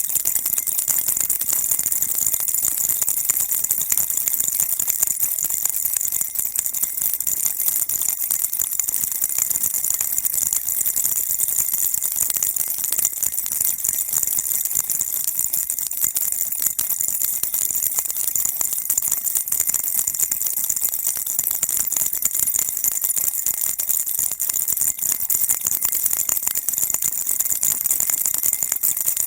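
Baby rattle shaken continuously, a dense bright jingling with no pauses.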